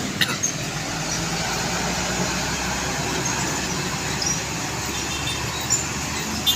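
Steady running of a heavy truck's engine with road noise, with a few short sharp clicks about a second in and near the end.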